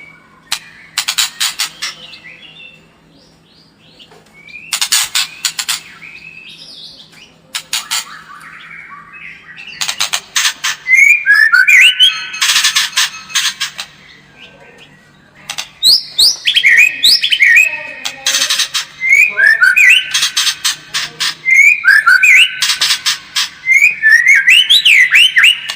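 White-rumped shama singing: loud bursts of harsh, rapid rattling notes alternating with clear whistled phrases that slide up and down, coming more densely from about ten seconds in.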